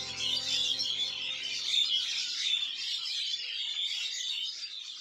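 Dense chorus of many small birds chirping and twittering together, a continuous overlapping mass of high quick notes. Held notes of background music fade away in the first half.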